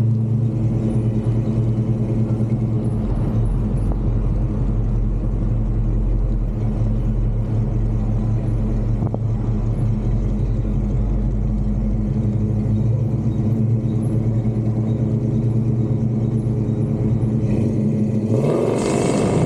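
1970 Dodge Charger's engine idling steadily, then revved up sharply near the end.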